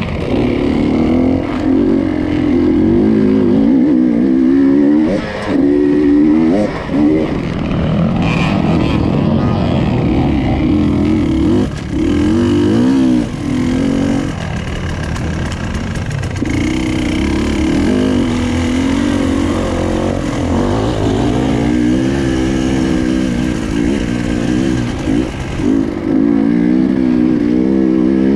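Enduro motorcycle engine revving up and down through the whole stretch as it is ridden off-road, with the throttle shut briefly a few times.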